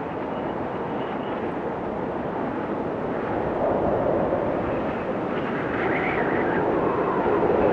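Blizzard wind blowing in gusts, a deep steady rush that swells louder toward the end, with a faint wavering whistle about six seconds in.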